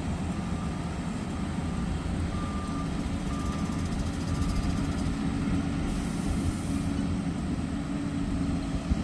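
Dump truck's diesel engine running with its backup alarm beeping, about one beep a second, which stops about halfway through.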